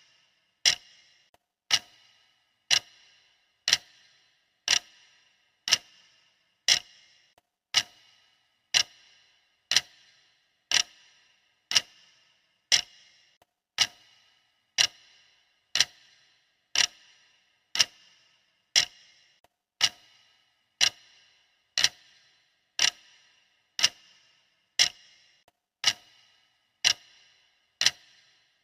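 Clock ticking steadily at about one tick a second, each tick a sharp click with a brief metallic ring.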